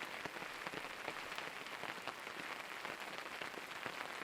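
Steady rain falling, a dense run of small drop hits.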